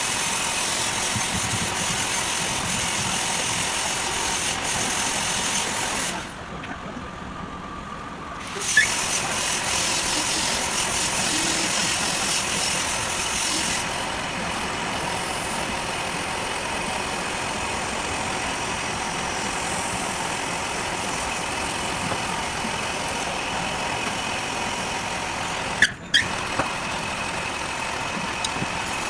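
Lathe running and machining, a steady mechanical noise that changes abruptly at several cuts, with a quieter stretch about six seconds in and sharp clicks near nine seconds and near the end.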